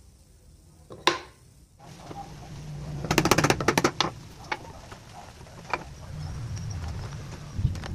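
Workshop handling sounds of wood and tools: a sharp knock about a second in, then a quick rattle of clicks and a few scattered knocks.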